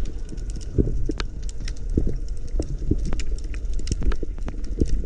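Underwater sound picked up by a spearfisher's camera: a steady low rumble of water with many scattered sharp clicks and crackles.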